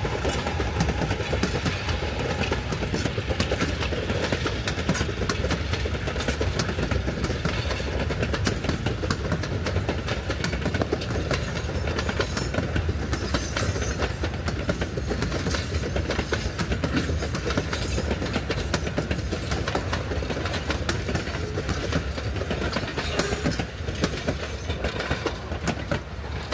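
Durango and Silverton narrow-gauge train, hauled by K-28 steam locomotive 473, running by with a steady, dense clatter of wheels on rail that eases slightly near the end.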